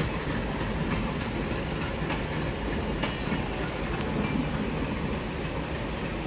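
Electric multiple-unit local train running along the track, heard from aboard: a steady rumble with wheel clatter over the rail joints.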